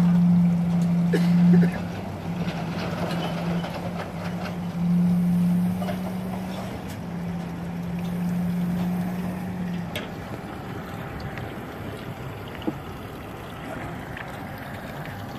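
An engine droning low and steady, with a few brief dips, that stops about ten seconds in.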